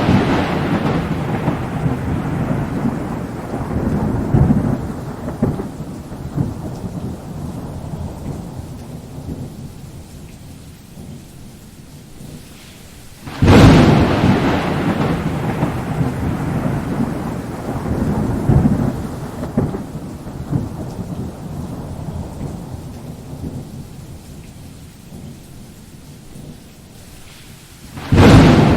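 Thunder: a loud clap opens into a long low rumble that rolls and fades over about twelve seconds. A second sharp clap comes about halfway and rumbles away the same way, and a third strikes near the end. Steady rain hisses underneath.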